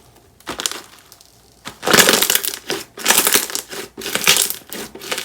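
힐링고미 (Healing Gomi) slime squeezed and pressed by hand, giving crunchy, crackling bursts: a short one about half a second in, then longer ones roughly once a second from about two seconds in.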